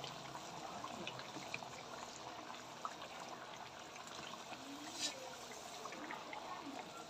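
Chicken pieces sizzling as they fry in hot masala in a clay pot, a steady faint hiss with scattered small crackles and one sharper click about five seconds in.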